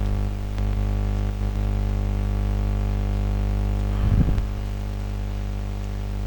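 Steady electrical mains hum with a few faint clicks, and a brief rustle about four seconds in.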